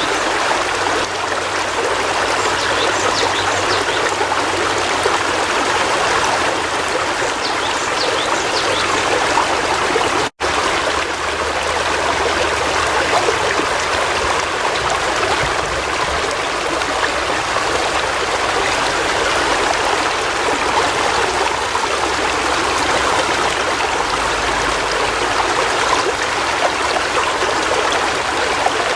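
River water flowing steadily over stones, an even rushing with some trickling. The sound cuts out for an instant about ten seconds in.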